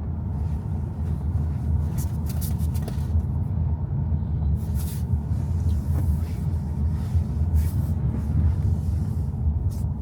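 Steady road and engine rumble inside a moving car's cabin on rain-wet roads, with several brief hissing swishes.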